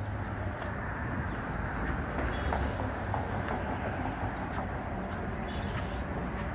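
Steady low rumble of passing vehicles, with a few faint clicks and knocks over it.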